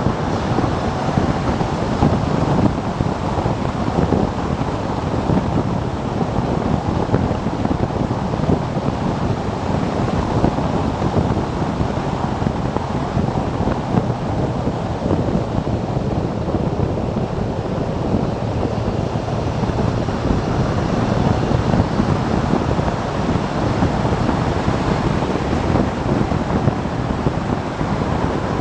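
Steady rush of wind buffeting the microphone of a camera riding on a moving motorcycle, with the bike's running noise blended in underneath.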